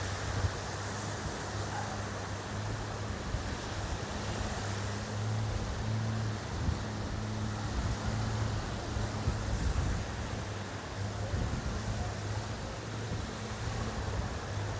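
Boat engine running with a steady low hum, over waves washing on the beach and wind on the microphone.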